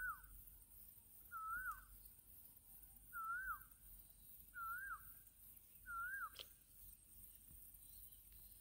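A bird's short whistled call, a wavy note that dips at the end, repeated five times about every second and a half, then a single sharp click.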